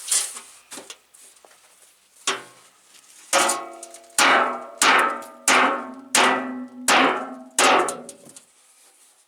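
Hammer blows on a dented metal truck fender, about eight strikes in a steady rhythm from about two seconds in, each ringing and dying away, as the dent is beaten out.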